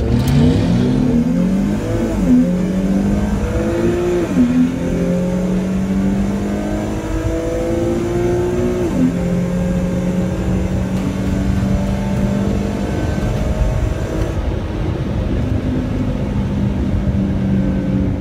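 Infiniti G37's 3.7-litre V6 at full throttle from a standing launch. The engine's pitch climbs through the gears, drops sharply at upshifts about two, four and nine seconds in, then pulls steadily in the last gear.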